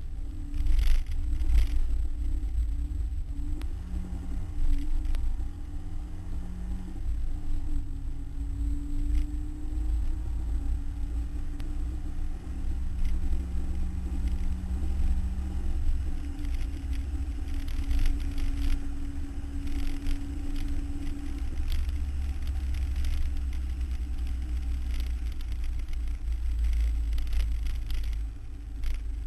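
Ford Cortina race car's engine heard from inside the cabin under hard driving, its note climbing and dropping as it is worked through the gears, over a heavy low rumble, with occasional knocks.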